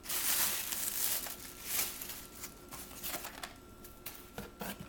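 Packing material crinkling and rustling as the contents of an opened shipping box are handled, loudest in the first second and again about two seconds in, then light scattered clicks and taps.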